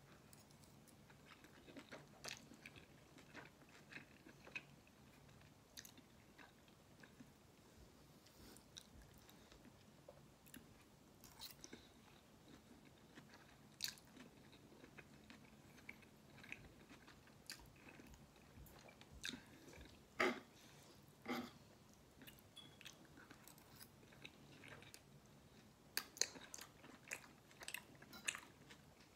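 Close mouth sounds of a man eating noodles: quiet chewing and biting, with scattered short clicks and wet smacks. The loudest comes about twenty seconds in, and a cluster follows near the end.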